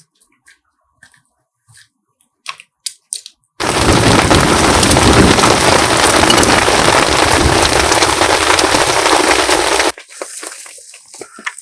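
A few faint cracks and snaps, then, about three and a half seconds in, the loud, dense rush of a heavy rain downpour begins abruptly. It runs steadily for about six seconds and cuts off sharply.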